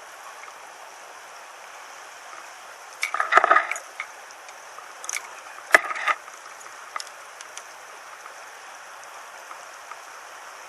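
Small stream running steadily, with two brief splashes about three and six seconds in from a hooked rainbow trout thrashing at the surface.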